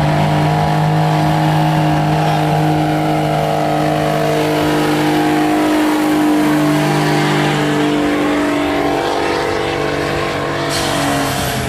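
Pulling truck's engine held at high revs under heavy load, the pitch nearly steady and sagging slightly near the end.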